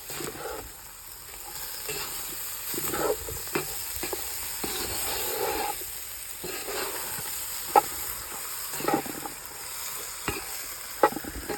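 A spoon stirring and scraping potatoes, onions and peppers frying in a cast-iron Dutch oven, over a steady sizzle, with a couple of sharp clinks of the spoon against the pot in the second half.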